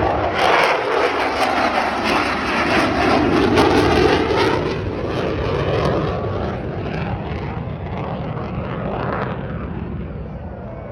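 Military fighter jet flying past with a loud jet roar that is strongest in the first few seconds and then fades away.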